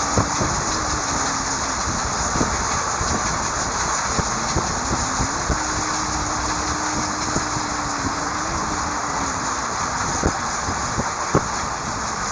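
Moving train running steadily, a continuous rushing rumble with scattered sharp knocks and a faint wavering hum underneath.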